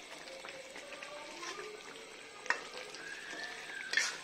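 Chicken korma frying in oil in a black iron karahi as a perforated steel skimmer stirs it, with a sharp metal clink of the spoon against the pan about two and a half seconds in and a louder one near the end.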